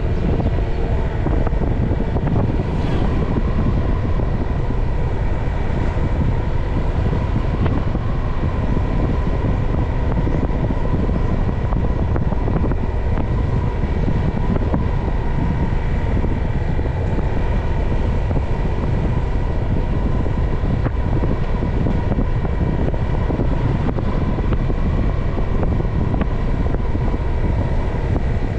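Motorcycle running at a steady cruising speed during a ride, with wind rumbling on the microphone. The sound is a constant, even drone with no clear changes.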